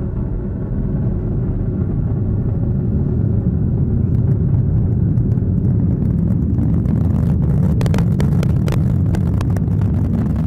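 Atlas V rocket's RD-180 first-stage engine in ascent, a steady deep rumble that picks up a crackle from about halfway through.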